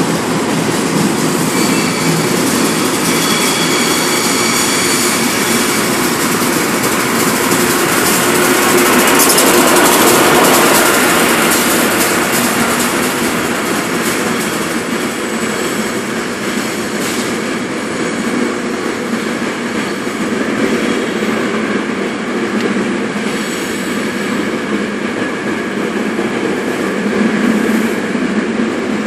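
SEPTA push-pull commuter train pulling into the platform track, with a steady loud rumble of wheels on rail. Thin high squealing tones sound in the first few seconds, and the noise is loudest about ten seconds in.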